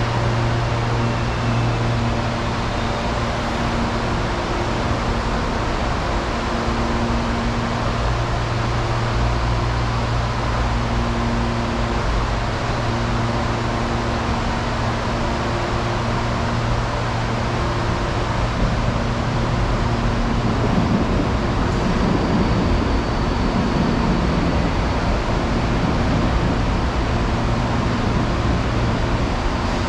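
Steady hum and rumble of an electric commuter train at a station platform, with a faint high whine joining about two-thirds of the way in.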